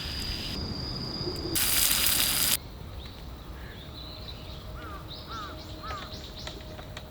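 Two short bursts of loud hiss in the first few seconds. After that, outdoor ambience with a bird calling in a quick series of short chirps.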